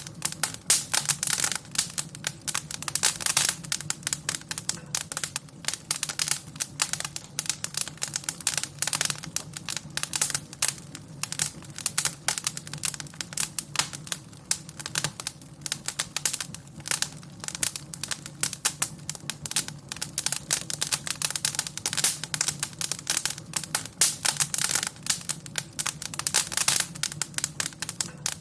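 Wood fire crackling in a fireplace: dense, irregular pops and snaps over a low steady hum.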